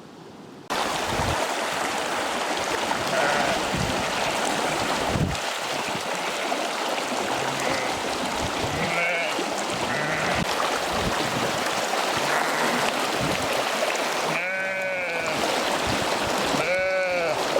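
Sheep bleating over a loud, steady rushing noise that starts abruptly about a second in. Several faint bleats are followed by two loud, quavering ones near the end.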